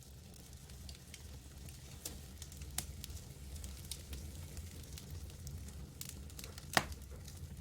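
Campfire crackling: scattered sharp pops and snaps over a low steady rumble, with one louder pop near the end.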